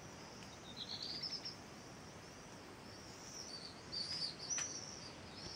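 Faint high bird chirps over a quiet outdoor background: a quick run of chirps about a second in, then more scattered chirps in the second half.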